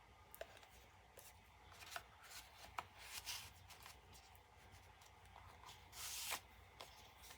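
Faint rustling and light clicks of paper and card being handled as the pages and cards of a handmade paper journal are moved, with a longer rustle about six seconds in.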